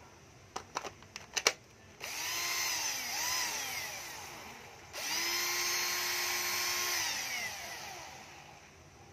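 A 12V cordless drill/driver, unloaded. A few sharp clicks come first, then about two seconds in the motor whines up and down twice in short pulls. It then runs at a steady high whine for about two seconds before spinning down slowly, as the drill has no brake.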